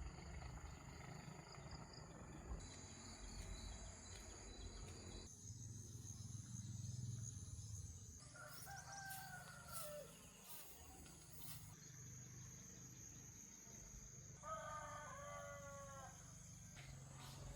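A rooster crowing faintly twice, the first crow falling in pitch and the second broken into short steps, over a steady high buzz of insects.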